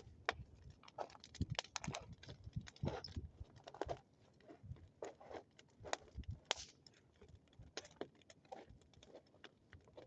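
Wood bonfire crackling and popping, with irregular sharp snaps coming several times a second.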